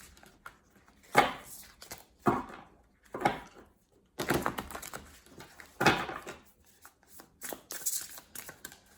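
Tarot cards being handled and laid down on a table: a series of irregular soft slaps and rustles, about half a dozen louder ones.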